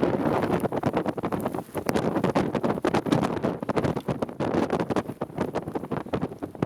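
Strong wind rushing over the microphone, with a rapid, irregular patter of knocks and crackles throughout, like debris or drops striking a surface.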